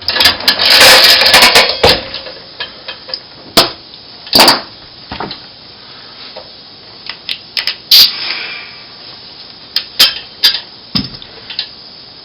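DeWalt D51256K pneumatic nail gun being tried while it has a nailing fault: a loud rushing noise with sharp clacks in the first two seconds, then single sharp clacks every second or few. The owner puts the fault down to the diaphragm or the trigger.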